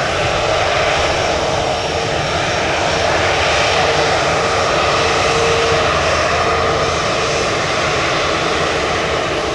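Jet airliner engines running, a loud, steady rush with an even hum and no rise or fall.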